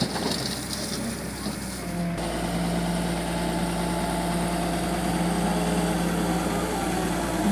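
Diesel engine of heavy machinery running steadily at a low, even pitch.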